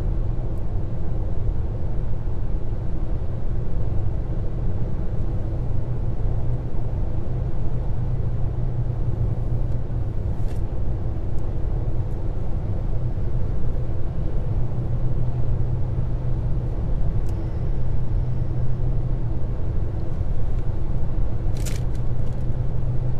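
Steady road and engine drone of an Opel Corsa 1.2 cruising on the motorway, heard from inside the cabin: a constant low rumble with a steady hum. A brief click comes near the end.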